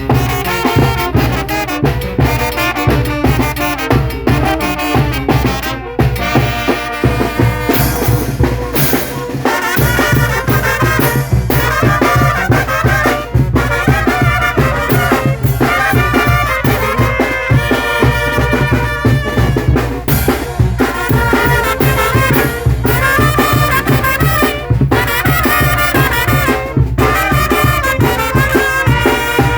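Mexican banda (brass band) playing: brass melody from trumpets and trombones over drums keeping a steady beat.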